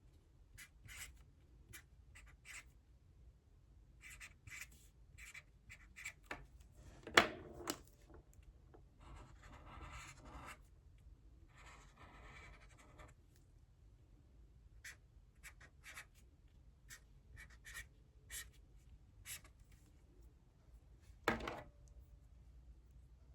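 Writing by hand on paper: a run of short scratchy strokes with a few longer stretches of continuous writing, and two louder knocks, one about seven seconds in and one near the end.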